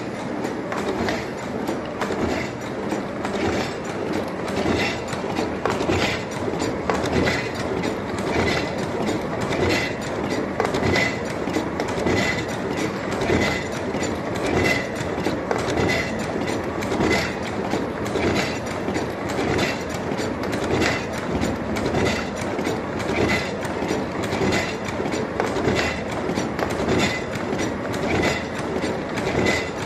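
Two-line siomay dumpling-making machine running, a steady rhythmic mechanical clatter of rapid clicks with a brighter ringing clank about once a second.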